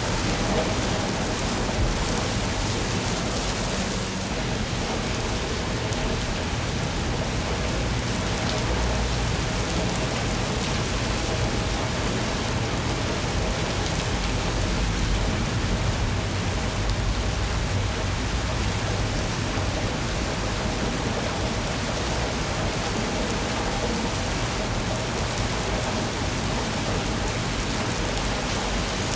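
Steady rain, an even hiss with a low rumble that swells and fades underneath.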